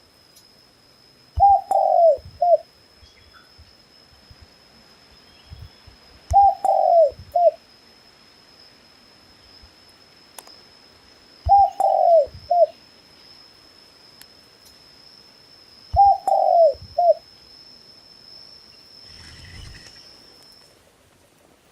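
A dove cooing: four short phrases about five seconds apart, each a longer falling coo followed by a short one.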